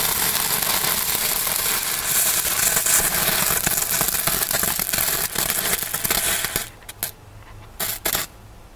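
Feistel 'Feuer Kröten' ground firework burning with a loud fizzing hiss and crackles. It dies down about six and a half seconds in, then gives two short last bursts of fizzing.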